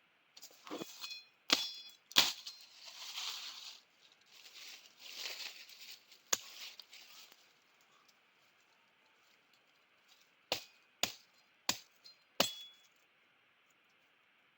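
Rustling of twigs and leaves broken up by sharp cracks, then four sharp snaps about half a second apart, as sticks are broken off by hand.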